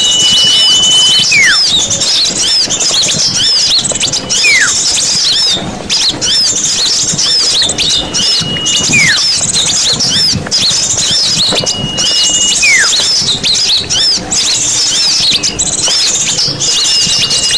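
Bird-lure recording of many small birds chattering densely with rapid, repeated high chirps. A clear whistle, a held note followed by a downward slide, recurs about every four seconds, like a looped call.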